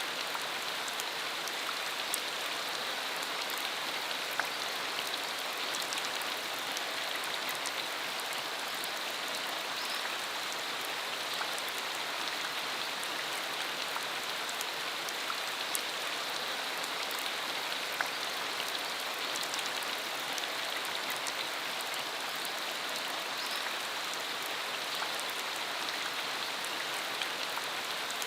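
Steady rain shower falling on a rural road, an even hiss with many separate drops ticking through it.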